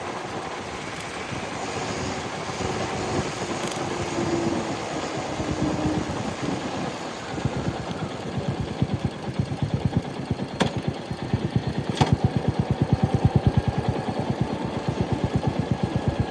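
Royal Enfield Meteor 350's single-cylinder engine running while being ridden. At first it is mixed with rushing road and wind noise. From about halfway in, its exhaust beat stands out as a steady, even stream of thumps at low revs, with two sharp clicks near the end.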